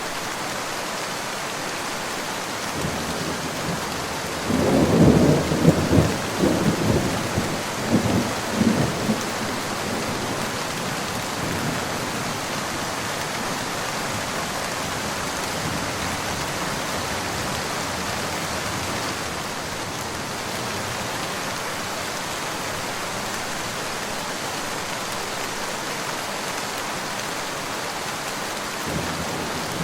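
Steady rain with a rolling peal of thunder that builds about three seconds in, is loudest around five to six seconds and dies away by about nine seconds; another roll of thunder begins near the end.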